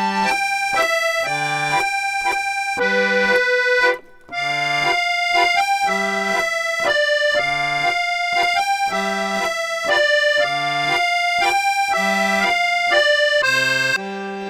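Background music: an accordion tune with a bouncing bass, in the style of a French musette waltz.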